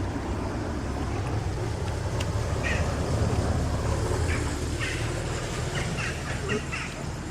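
A cat meowing in several short calls, a quick run of them near the end, over a steady low rumble.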